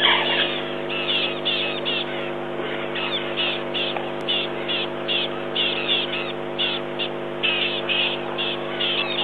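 Birds calling: short, high chirping calls repeated in quick clusters throughout, over a steady low hum.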